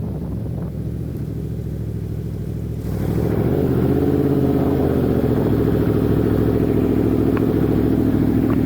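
Sport motorcycle engine running steadily, getting clearly louder about three seconds in and holding there.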